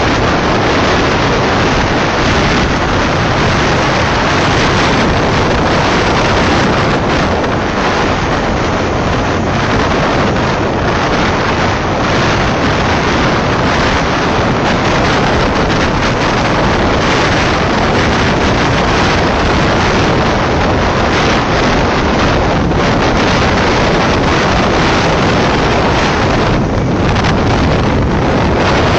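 Heavy wind noise on the microphone over the steady running of a BMW motorcycle with sidecar on the move.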